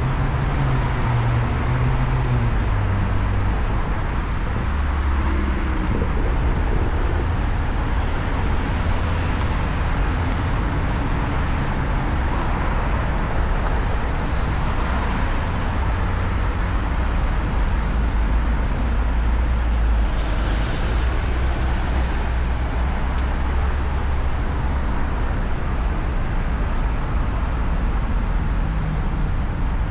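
Steady city traffic and road noise heard from a moving electric motorcycle, with a heavy low rumble of wind on the microphone.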